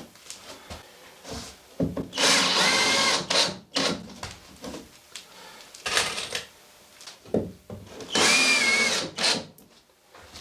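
Electric drill running in two bursts of about a second each, its motor whine wavering in pitch under load, with small knocks and handling noise between the bursts.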